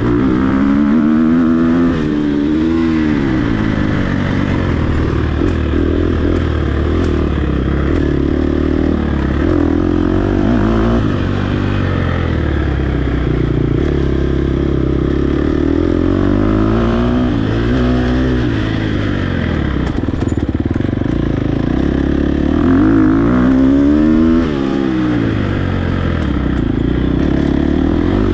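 Dirt bike engine, ridden hard off-road: the pitch climbs and drops back over and over as the throttle is worked and gears change.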